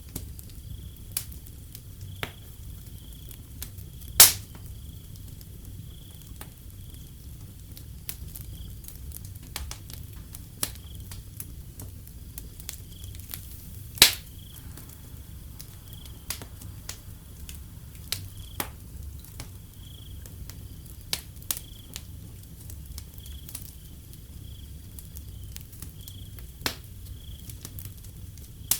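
Wood fire crackling, with scattered sharp pops, two much louder ones about four and fourteen seconds in, over a low rumble. Crickets chirp steadily behind it in a thin, high, pulsing trill.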